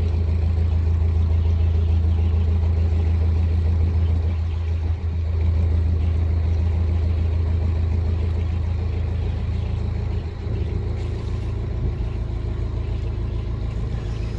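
Narrowboat's diesel engine running steadily under way, a low even drone.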